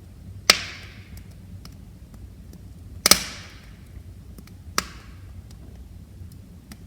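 Wood fire crackling: three sharp pops about half a second, three seconds and nearly five seconds in, the middle one loudest, among faint ticks over a low steady rumble of flames.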